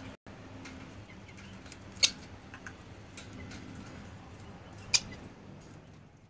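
Birds in a backyard poultry pen: faint short chirps and calls over a low steady hum, with two sharp clicks, about two seconds in and again about five seconds in.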